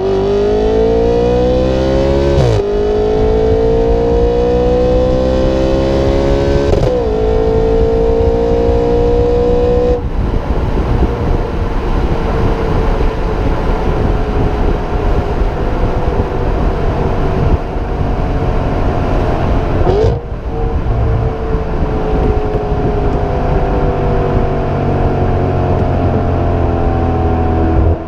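Audi RS5 engine pulling at wide open throttle through a Supersprint non-resonated mid X-pipe and stock mufflers. The pitch climbs and drops sharply at two quick upshifts, then the revs ease off and fall slowly, with a brief dip about two-thirds of the way through.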